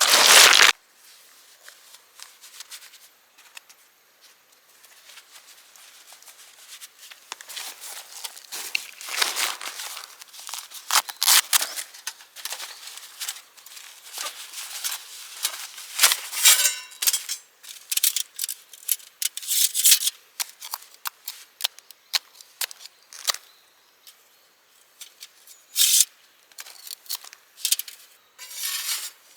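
Irregular close handling noises: short scrapes, rustles, crinkles and snips of camp-cooking preparation. There is a loud burst right at the start, and a few quieter stretches in between.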